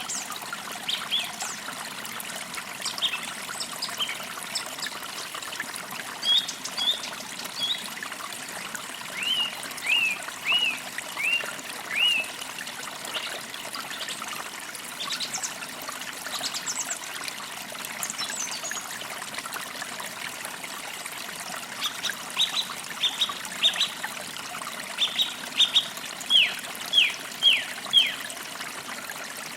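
Small creek trickling steadily over stones, with songbirds chirping: a run of down-slurred notes about ten seconds in and a quicker series of repeated notes near the end.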